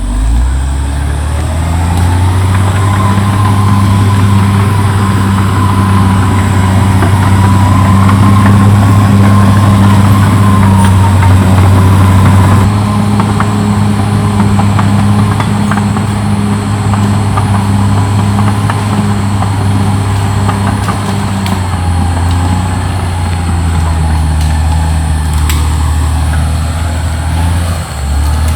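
CAT D6R XL crawler bulldozer's diesel engine running steadily under load, a deep drone with a fainter whine above it; its pitch shifts slightly twice, as if the load changes.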